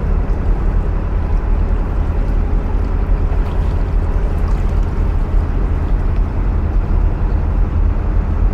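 Narrowboat's diesel engine running steadily inside a brick canal tunnel, a loud, even low drone.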